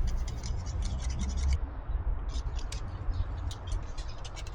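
Light scraping and rubbing with many small clicks, as grease is worked onto a scooter's front wheel axle by hand, over a steady low hum.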